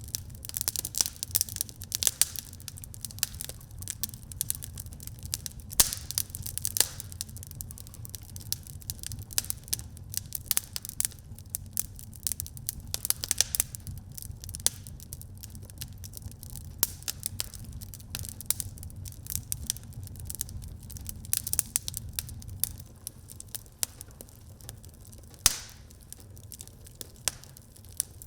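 Wood fire in a fireplace crackling and popping, with irregular sharp snaps over a steady low rumble of the flames and one louder pop near the end.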